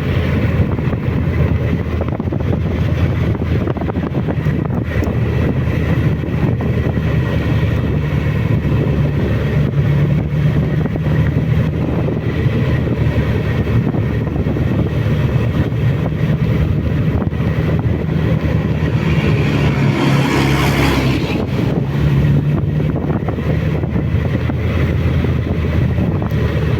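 Suzuki Bandit motorcycle engine running steadily on a mountain descent, with wind noise on the microphone. A brief rush of louder noise passes about twenty seconds in.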